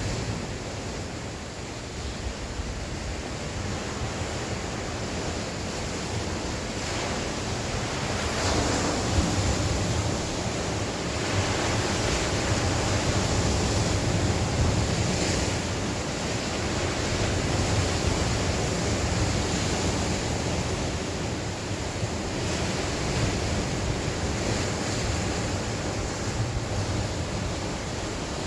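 Sea waves breaking and washing on the shore, the surf swelling and easing over several seconds, with wind rumbling on the microphone.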